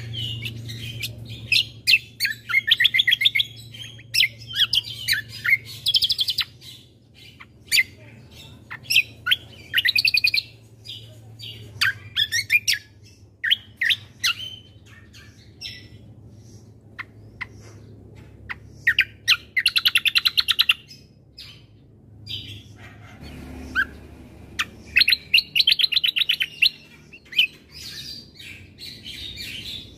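Kecial kombo (cucak kombo) songbird singing: bursts of sharp chirps and fast rattling trills, with short pauses between phrases. A faint steady low hum runs underneath.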